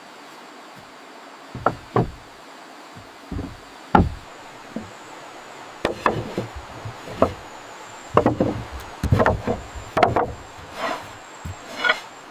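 Irregular knocks and thuds on wood, about a dozen, coming closer together in the second half, over a steady hiss of rain.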